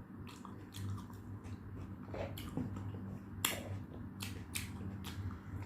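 Close-up eating sounds: wet chewing and mouth smacks with a scattered run of sharp clicks, over a low steady hum.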